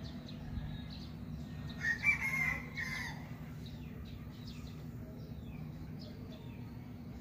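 A single loud bird call, lasting about a second, comes about two seconds in over a steady low hum, with faint short chirps scattered around it.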